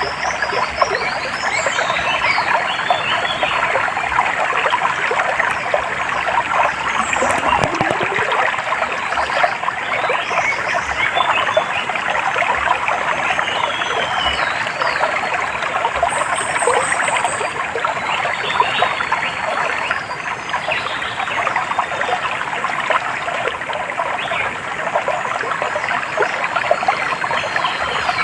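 A small stream trickling and splashing steadily, with birds chirping now and then above the water.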